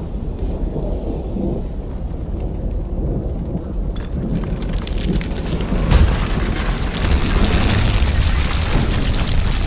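Dramatised volcanic-eruption sound: a deep steady rumble. About four seconds in, a hissing, crackling rush joins it, and a boom about six seconds in is followed by louder rumbling and crackling.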